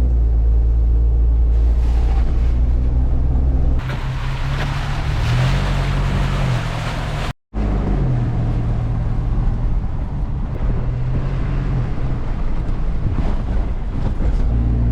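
Vehicle engine running with steady road noise as it drives along, the engine note rising and falling several times. The sound cuts out abruptly for a moment about halfway through.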